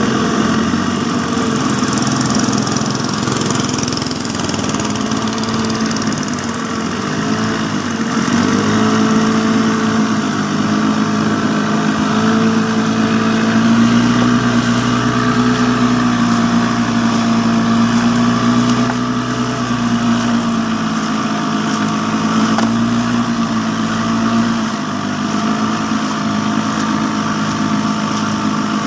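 A small engine running steadily, its pitch rising and falling slightly, a little louder for a stretch in the middle.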